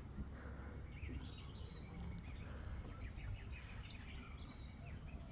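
Birds chirping and calling in trees: many short, high chirps and quick rising notes, scattered throughout, over a low steady rumble.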